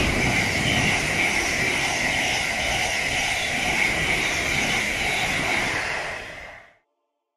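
Thameslink Class 700 electric multiple unit passing close by at speed: a steady rush of wheel-on-rail and air noise with a high whine, fading out quickly near the end.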